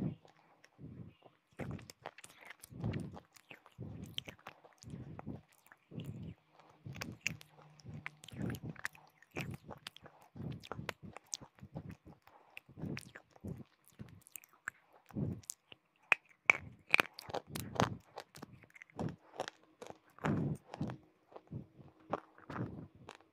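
Close-miked chewing of hard, brittle crunchy pieces, with a crunch on each bite about once a second and sharper, louder cracks about two-thirds of the way through.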